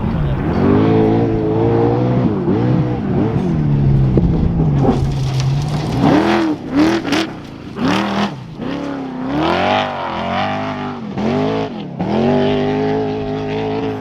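Off-road trophy truck engine revving hard, its pitch rising and falling again and again with the throttle, with a few sharp cracks about halfway through.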